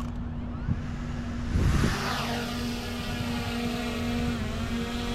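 DJI Mini 3 Pro quadcopter's propellers spinning up about a second and a half in with a rush of prop wash, then a steady multi-tone propeller whine as it lifts off and hovers, its pitch dipping briefly near the end.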